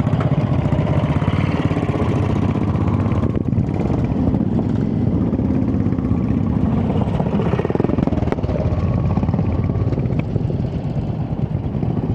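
Motorcycle engine idling close by, running steadily with an even, rapid beat.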